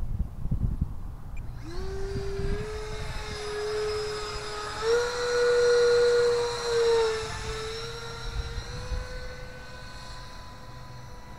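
Whine of the 64 mm electric ducted fan (3300 kV motor) of a Freewing F-16 RC jet flying past at high throttle. It comes in about two seconds in, steps up in pitch and is loudest around the middle, then eases off toward the end.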